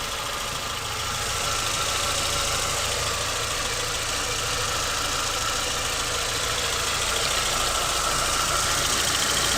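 Renault K7M 1.6-litre eight-valve petrol engine idling steadily.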